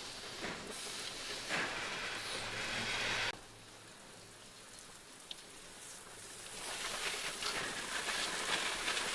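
A rushing hiss that cuts off suddenly about three seconds in and builds up again from about seven seconds, over a faint steady hum.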